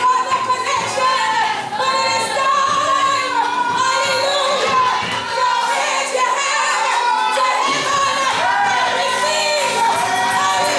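Gospel worship singing, led by women's voices, over steady instrumental backing.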